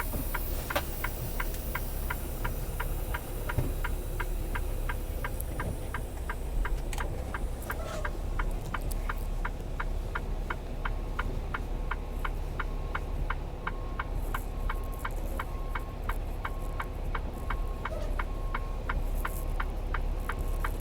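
A truck's turn signal ticking steadily, about three clicks a second, over the low hum of the idling engine, as it sits ready to pull out. From about halfway a short beep sounds roughly once a second alongside the ticking.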